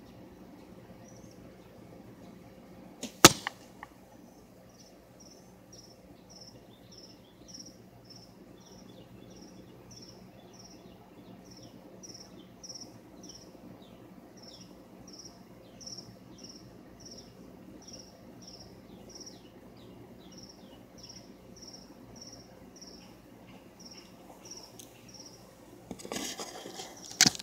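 A single sharp knock about three seconds in, then a bird chirping over and over, short high chirps about two a second. Near the end come rustling and bumps as the bow carrying the camera is picked up.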